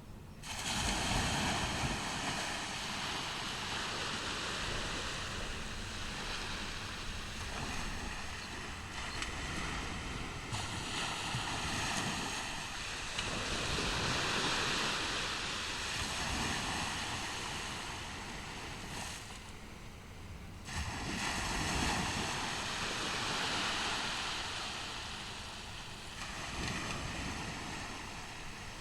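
Ocean surf on a beach: waves breaking and washing up the shore in long rushing surges. One comes in right at the start, another swells to its loudest around the middle, and a fresh one breaks suddenly about three-quarters through.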